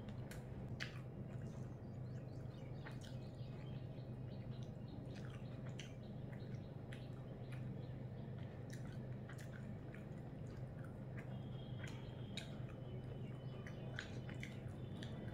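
A person eating rice with their fingers: scattered chewing clicks and lip smacks, over a steady low hum.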